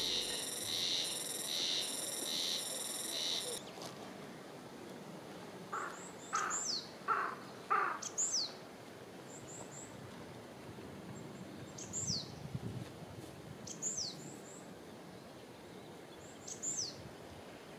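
Backing music ends about three seconds in. Then wild birds call outdoors: a short high whistled phrase falling in pitch, repeated about every two seconds. Around six to eight seconds in, a lower call sounds four times.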